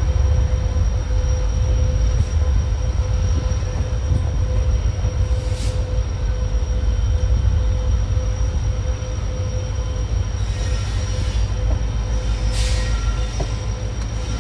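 Passenger train running along the track, heard from a coach: a steady low rumble with a thin steady whine over it, and two brief hisses about six and twelve seconds in.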